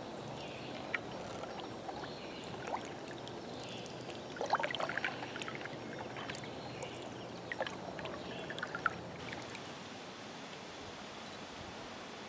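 Water lapping and trickling against a canoe's hull, with a few small drips and splashes around the middle.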